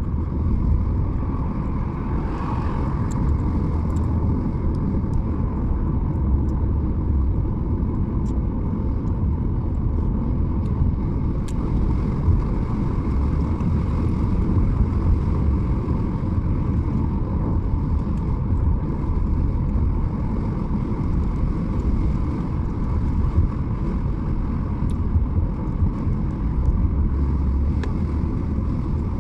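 Car driving along a road at a steady pace: a continuous low rumble of engine and tyres.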